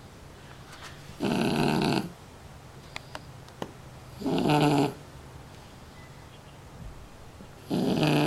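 A shar-pei puppy snoring: three loud, buzzy snores, each just under a second long, about three seconds apart.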